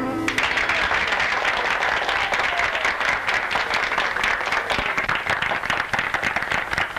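Audience applauding: dense, steady clapping. The band's music ends just as it begins.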